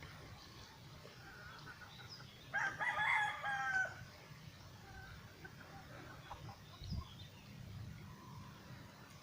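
A rooster crowing once, about two and a half seconds in, a single call lasting over a second, against faint scattered bird chirps.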